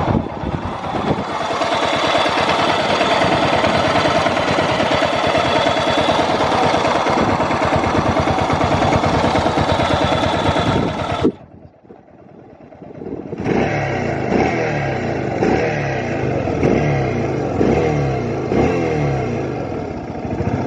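Yamaha SRX600's single-cylinder four-stroke engine running steadily, then after a sudden drop about 11 seconds in, idling with slow, even firing pulses. The seller calls it free of abnormal noise.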